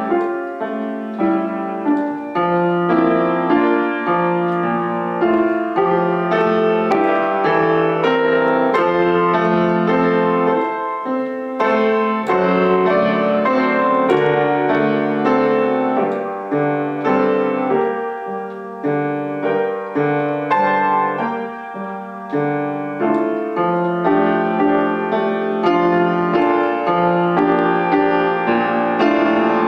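Solo piano music: a piece played with many quickly struck notes over a moving bass line.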